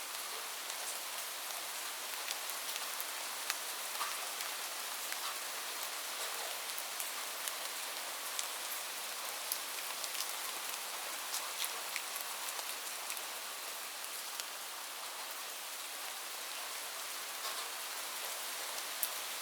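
Steady rain, an even hiss with many individual drops landing sharply throughout.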